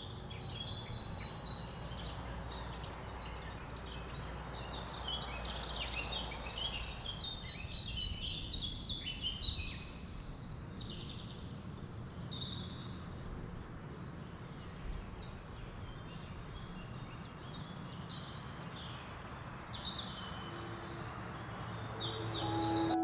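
Several birds chirping and singing in a forest, busiest in the first half, over a low steady rumble of outdoor background noise.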